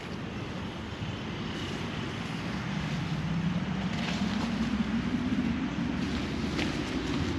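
A low engine drone that slowly rises in pitch and level over several seconds, over a steady rush of wind noise, with a couple of faint clicks.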